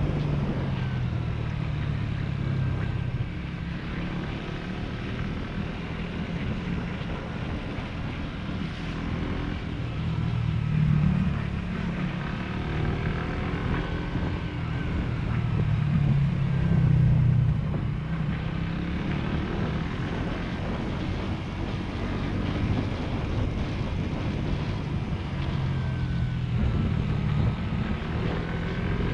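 Motorcycle engine running while riding, its note rising and falling with the throttle, with two louder swells around a third of the way in and again past the middle.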